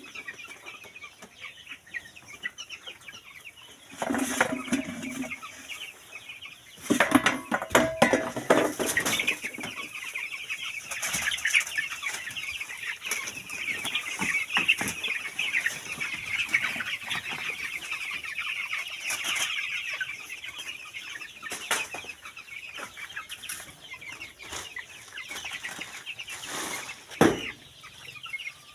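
A large flock of poultry chickens clucking and chattering, a dense overlapping din that swells a few seconds in. Scattered clicks and a sharp knock near the end.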